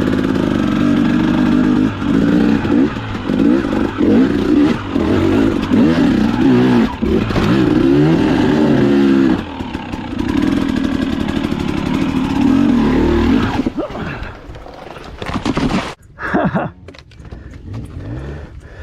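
KTM dirt bike engine revving up and down, its pitch rising and falling again and again as it climbs rocky steps. It falls back sharply and goes much quieter near the end.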